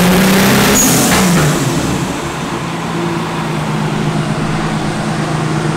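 Turbocharged VR6 engine of an Audi A3 3.2 quattro finishing a full-throttle dyno pull: the note rises to the top of the revs, then about a second in the throttle closes with a burst of hiss and the pitch drops. It then settles into a steady lower drone.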